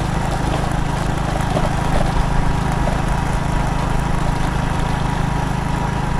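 Motorcycle engine running steadily, with an even low drone and no change in pace.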